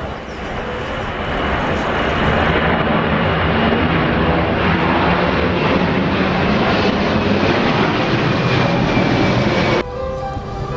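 Jet airliner's engines passing close by: a loud, dense roar that builds over the first two seconds and holds, with a faint high whine on top. Near the end it cuts off abruptly and music takes over.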